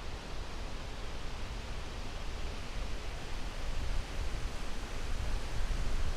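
Steady wind with a deep low rumble, swelling in gusts about four seconds in and again near the end.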